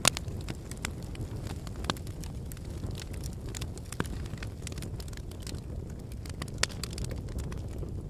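Wood campfire burning with a steady low flutter of flames and irregular sharp pops and crackles from the burning logs, the loudest pop just at the start.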